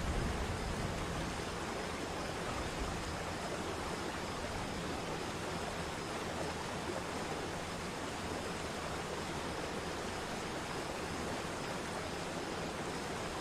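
Waterfall's steady rush of falling water, an unbroken, even hiss.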